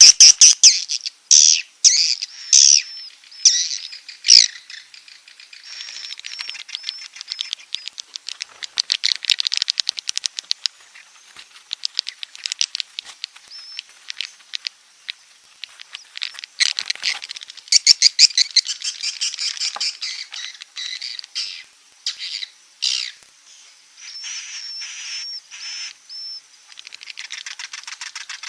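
Swiftlets twittering: rapid trains of high, buzzy chirps and clicks in bouts with short gaps, loudest at the start. It is a recorded swiftlet roosting call (suara inap), the kind played to draw swiftlets in to roost.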